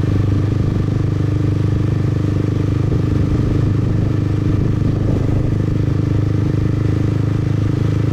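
Motorbike engine running steadily while riding, with a constant low hum and no change in speed.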